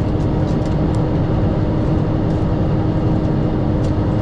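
Semi truck's diesel engine idling steadily, heard from inside the cab as a low rumble with a constant hum.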